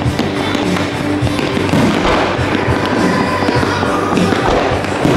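Fireworks display going off, with many crackles and bangs in quick succession, over music playing throughout.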